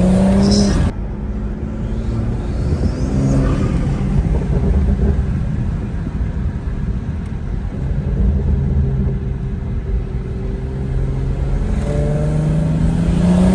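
Turbocharged 3.0-litre inline-six of a tuned 2016 BMW 340i M Sport, heard from inside the cabin while driving. The engine note rises, drops away suddenly about a second in, runs steadily through the middle, then climbs again near the end as the car accelerates.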